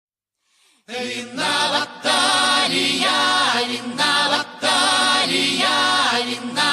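Music intro: a choir singing in layered harmony, coming in about a second in and repeating a short phrase.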